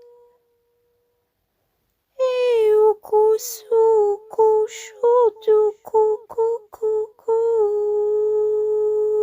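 A voice hums or vocalises short syllables on one note with small pitch slides and breathy gaps, then holds one long steady tone from about seven and a half seconds in. The opening seconds are a faint tone dying away, then silence.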